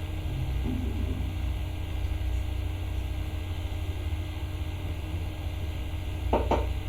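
Steady low hum of background noise on the microphone, with a couple of brief short sounds near the end.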